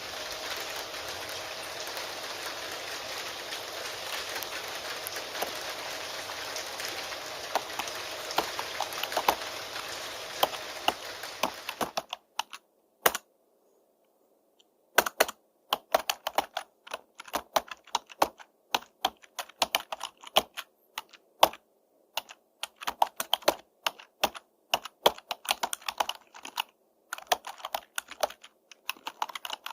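Steady rain with computer-keyboard typing mixed in, the rain cutting off suddenly about twelve seconds in. After a short pause, keyboard typing alone continues as irregular bursts of keystrokes.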